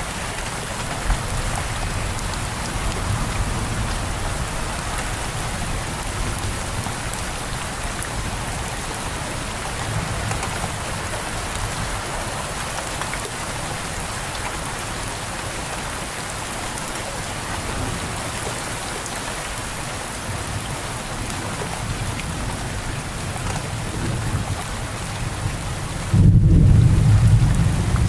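Steady rain falling, with a sudden, loud, deep rumble of thunder near the end.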